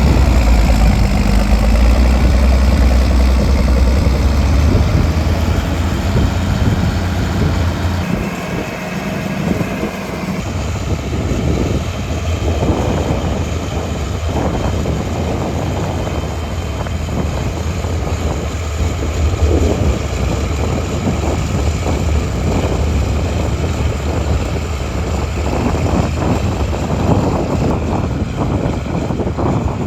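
International 5288 tractor's diesel engine running. A strong deep drone dominates for the first eight seconds and then drops away. From about ten seconds in, rougher, uneven noise follows as the tractor works.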